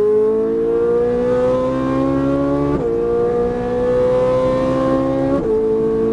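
Ferrari 458 Italia's 4.5-litre V8 accelerating hard, heard from inside the cabin. The pitch climbs steadily and drops sharply twice, near three seconds and about five and a half seconds in, at two quick paddle upshifts.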